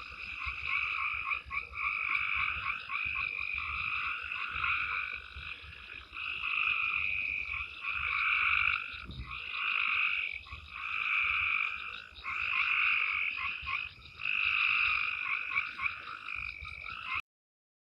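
A night chorus of frogs calling: rapid pulsed trills that swell and fade in overlapping bouts of a second or two, cutting off suddenly near the end.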